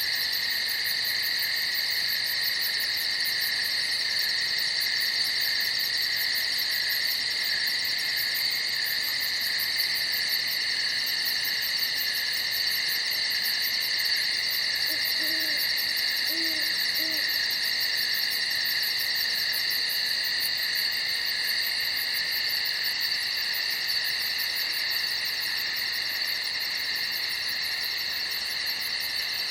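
Night chorus of crickets trilling steadily without a break. About halfway through, three faint short low calls sound behind the chorus.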